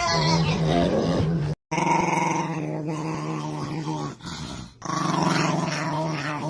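Dog growling in long, sustained rumbles, broken by a brief silent cut about a second and a half in and a short pause later on.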